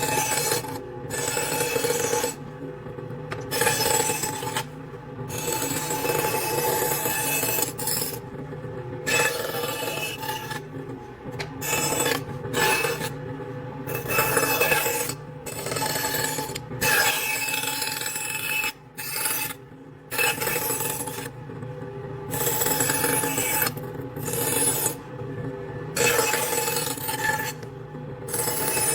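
Repeated hand strokes rubbing and rasping across a wooden surface, each lasting about a second with short breaks between, like sanding or scraping wood by hand.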